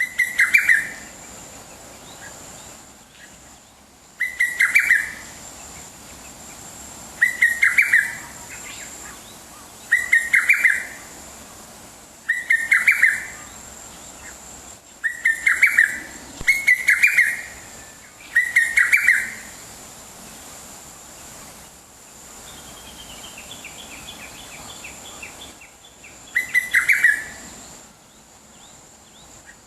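A wild bird singing close by: a short phrase of quick notes, repeated about every two to three seconds. A fainter, higher run of notes comes from another bird about two-thirds of the way through.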